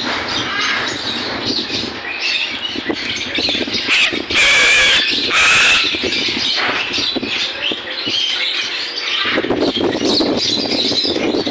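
Parrots squawking and chattering continuously, with two loud, harsh screeches in quick succession about four and five seconds in.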